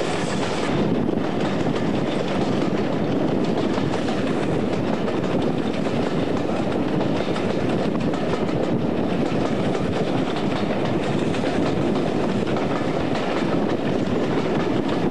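Passenger train coaches running along the track, a steady rumble with the clatter of wheels on the rails, heard from an open carriage window.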